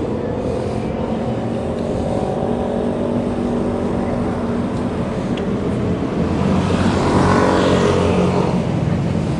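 Steady traffic and motor noise while riding, with a vehicle passing close: it swells to its loudest about seven to eight seconds in, then fades.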